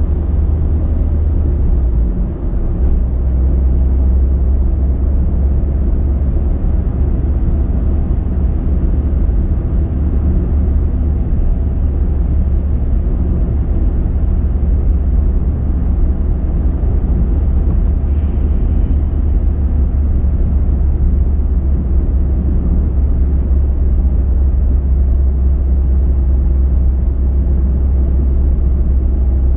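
A car driving at a steady pace, its tyre and engine noise a constant deep rumble.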